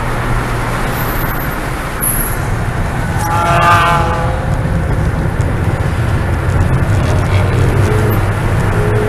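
Ford Fiesta ST's engine and tyre noise heard inside the cabin as the car runs through a bend on a wet track. The engine note holds steady, with a brief high squeal about three and a half seconds in.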